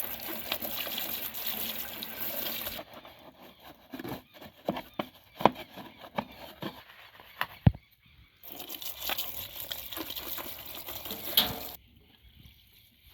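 Water running and splashing in two spells of a few seconds each, with knocks and clatter of handled parts between them and near the end, as the foam air filter is washed.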